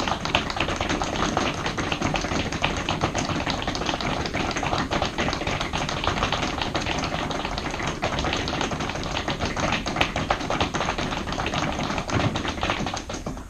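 A group of people seated on chairs rapidly tapping their feet on the floor, a dense, steady patter of footfalls that stops abruptly near the end.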